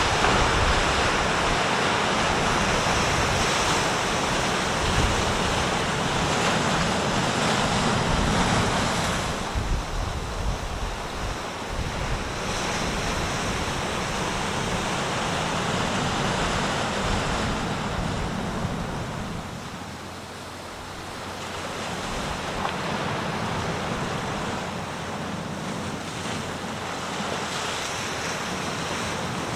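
Sea waves breaking and washing on the shore, the surf swelling and easing over several seconds, with a lull about twenty seconds in, and some wind on the microphone.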